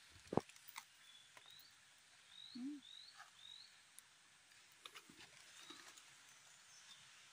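Quiet outdoor ambience with a small bird repeating short, high, rising chirps, about five of them. A sharp click comes about a third of a second in, and a brief low warbling sound near the middle.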